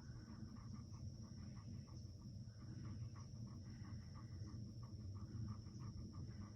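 A Great Pyrenees mix dog panting softly, about three quick breaths a second, over a faint steady high-pitched tone.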